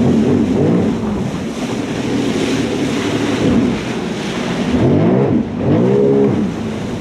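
Jet ski engine running at speed over the water, with wind buffeting the microphone and spray hissing. About five seconds in the engine note climbs and then holds as the throttle opens.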